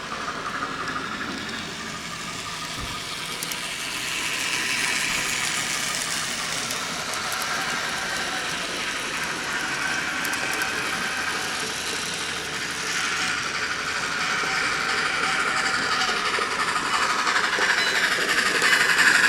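N scale model train running along the track, growing louder toward the end.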